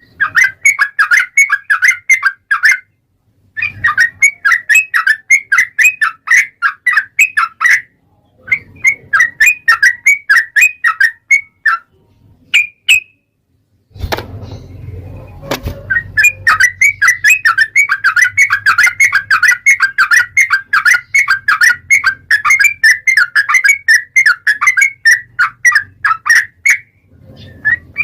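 Sooty-headed bulbul singing long, rapid runs of chattering, whistled notes in several bursts with short pauses between them. A low thump is heard about halfway through, as a new run starts.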